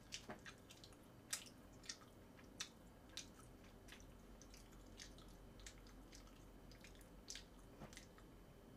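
Faint chewing mouth sounds: irregular soft wet clicks and smacks, about one or two a second, over quiet room tone.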